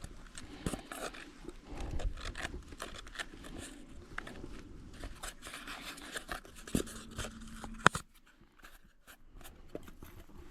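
Close handling noises of fishing tackle being rigged and baited: rustling, light scrapes and many small clicks, with one sharp click about eight seconds in, after which it goes quieter.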